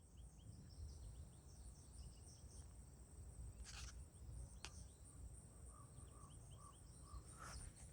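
Near silence outdoors: a faint steady high insect trill, with a few faint short bird chirps and a run of soft notes near the end.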